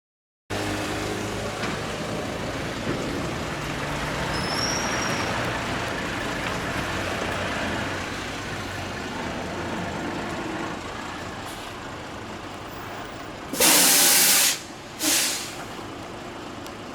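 Large truck's engine running steadily, with two short, loud air-brake hisses near the end.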